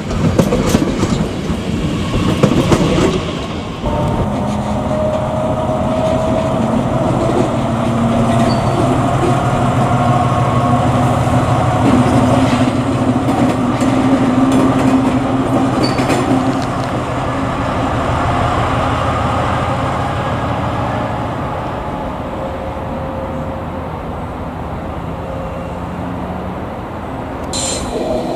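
Train moving through the station: wheels clatter over rail joints for the first few seconds, then a steady hum of its drive with a slowly rising whine takes over and fades gradually. A brief high squeal comes near the end.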